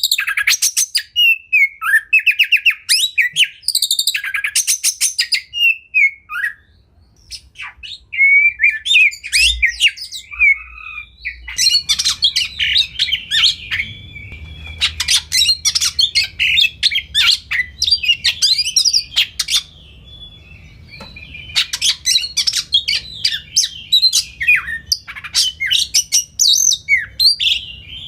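Oriental magpie-robin (kacer) singing a loud, varied song. Phrases of fast repeated sharp notes and warbling alternate with brief pauses, the longest about six seconds in.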